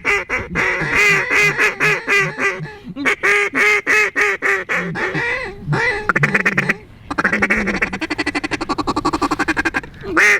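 Duck hunters blowing mallard duck calls hard: loud runs of quacks, and after a short break about seven seconds in, a fast rolling feed-call chatter, calling at a flock of ducks.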